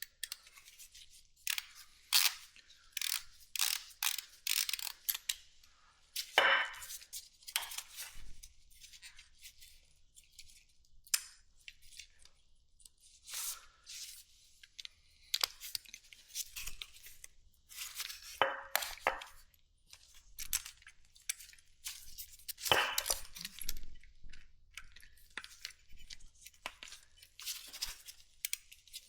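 Hand tools and small metal parts clicking, clinking and scraping at irregular intervals during carburetor removal on a motorcycle.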